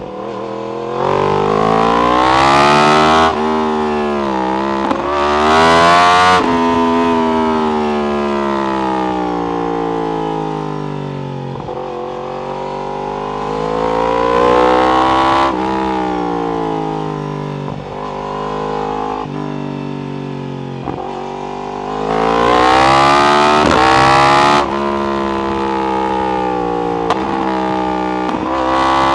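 Yamaha R1 inline-four sportbike engine through an Akrapovic exhaust, accelerating hard three times with the pitch climbing steeply and cutting off sharply when the throttle closes or a gear changes. Between the pulls it falls back to a quieter engine note that rises and falls at part throttle.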